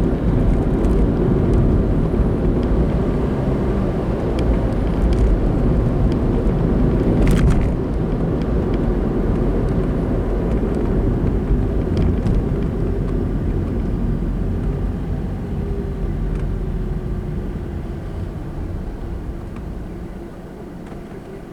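Car driving on a town road: steady engine and tyre rumble that gradually dies down in the last several seconds as the car slows, with a single sharp click about seven seconds in.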